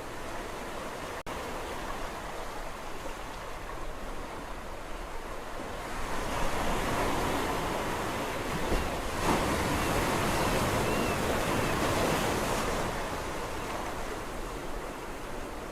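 Sea waves washing on a shore: a steady hiss of surf, with a bigger wave building about six seconds in, breaking and rushing for several seconds, then drawing back. There is a split-second dropout in the sound about a second in.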